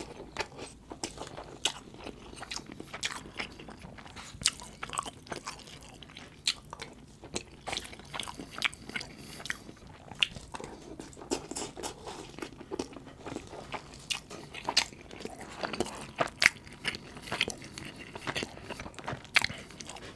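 Close-miked chewing of spoonfuls of rice in butter chicken sauce: wet, irregular mouth clicks and smacks, a few each second.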